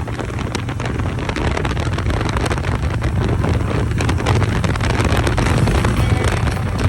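Harley-Davidson V-twin motorcycle engine running steadily while riding, with wind buffeting the microphone.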